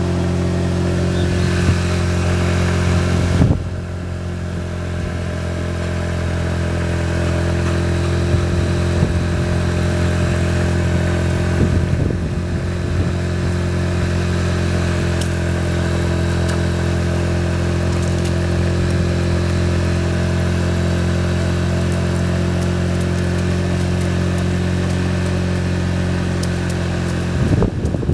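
A machine running at a steady speed: a loud, low hum of unchanging pitch that stops about a second before the end.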